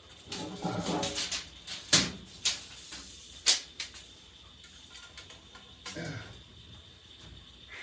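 Several sharp knocks, the loudest about two seconds in and another about three and a half seconds in, with a short creaking, falling sound before them and again about six seconds in.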